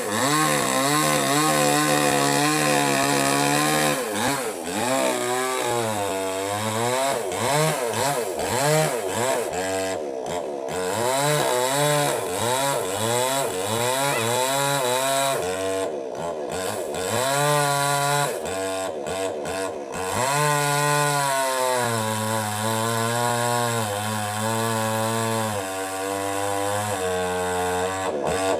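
Small two-stroke petrol chainsaw cutting wood. Its engine pitch rises and falls over and over as it is revved and eased through the cut, settling to a lower, steadier running note now and then.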